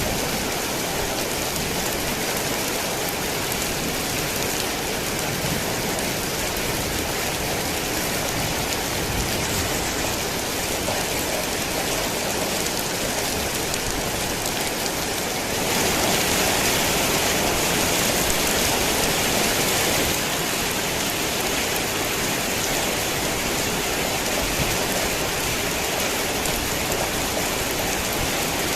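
Heavy rain falling steadily as a dense, even hiss of drops. For a few seconds past the middle it grows louder and brighter, then settles back.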